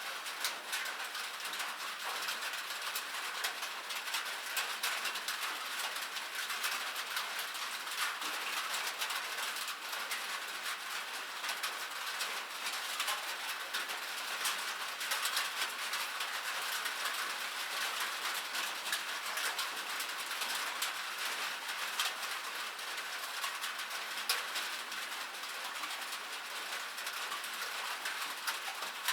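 Steady rain pattering on a metal surface: a dense, even spatter of many small drop ticks.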